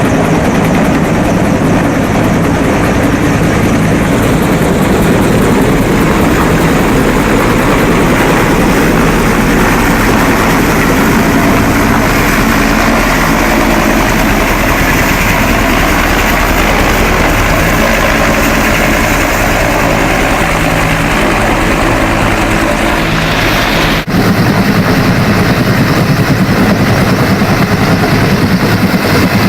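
Helicopter rotor and engine running loud and steady at close range, with a momentary dip in level about 24 seconds in.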